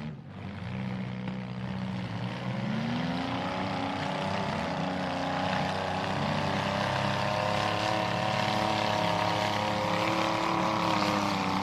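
Mini truck engines running in a demolition derby: one engine holds a low, steady note while another revs up about two to three seconds in and stays at high revs.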